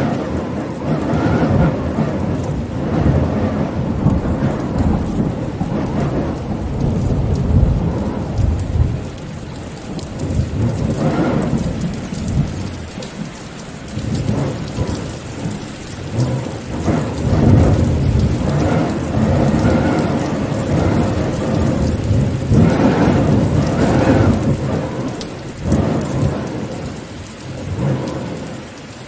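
Steady rain falling, with thunder rolling and rumbling underneath in long swells that grow louder and fade again.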